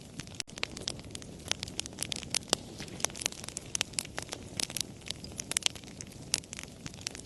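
Wood fire crackling: irregular sharp pops and snaps, several a second, over a low steady rush of burning. The sound drops out for an instant about half a second in.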